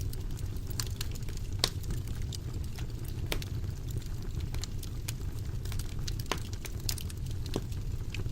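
Wood fire burning in a fireplace: a steady low rumble of flames with irregular sharp crackles and pops, the loudest pop about a second and a half in.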